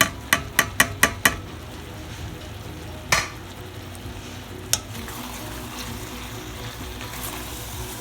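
Chicken curry sizzling in a pan as it is stirred. A utensil knocks against the pan six times in quick succession at the start, then twice more.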